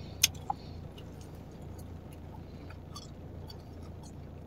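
Chewing gum being chewed, with small wet mouth clicks and one sharper click about a quarter second in, over a steady low hum.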